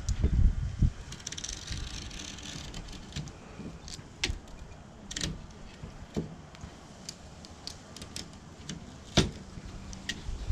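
Irregular clicks and knocks from handling tools and an aluminium screen door frame during screen replacement, the sharpest about four, five and nine seconds in, with low handling rumble in the first second.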